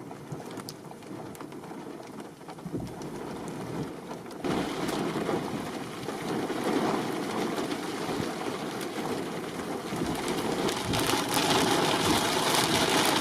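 Heavy rain falling in a storm, getting louder in steps about four seconds in and again near the end.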